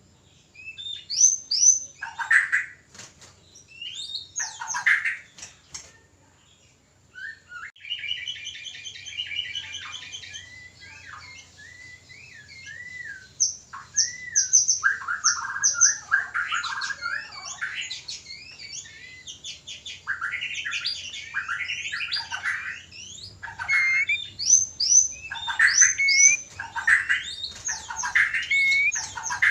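White-rumped shamas (murai batu) giving mating-season song and calls. The phrases are varied and whistled, with sharp chirps, a brief pause about six seconds in, and a fast rattling trill a couple of seconds later. The singing grows dense and continuous over the last third.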